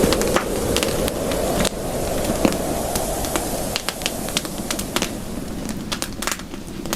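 Campfire crackling: frequent sharp, irregular pops and snaps over a steady low rush of burning wood, the rush easing a little about two seconds in.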